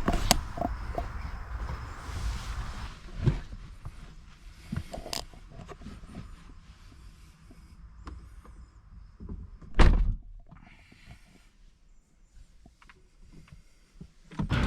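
Scattered short knocks and clicks of handling, with one louder thump about ten seconds in.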